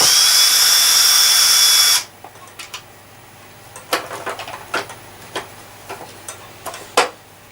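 A power drill-driver runs in one burst of about two seconds with a high whine, then stops. Several sharp clicks and knocks of parts being handled follow.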